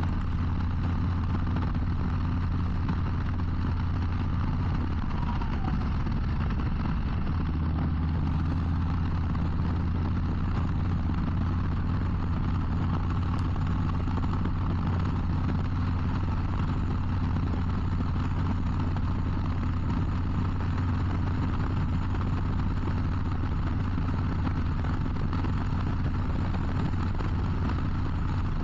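Harley-Davidson Low Rider ST's Milwaukee-Eight 117 V-twin holding a steady cruise on cruise control: an even, low engine drone under a constant rush of wind and road noise.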